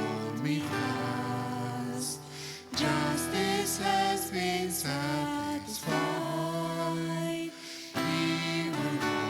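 Congregational hymn singing with instrumental accompaniment, acoustic guitar among the instruments.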